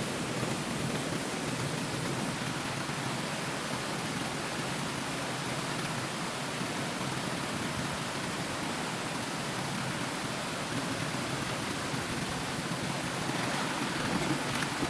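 Steady rushing of stream water, an even hiss with no breaks.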